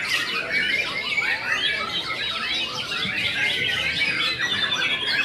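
White-rumped shama singing without pause: a dense, rapid run of varied whistled notes and quick trills.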